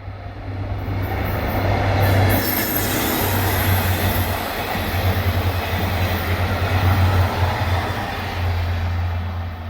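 A train running past close by, its rail noise building about a second in, staying loud, then easing slightly near the end.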